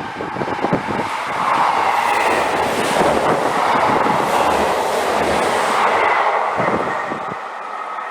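A train passing at speed on the main line, a rushing rumble of wheels on rail that builds about a second and a half in, holds loud through the middle and fades away near the end.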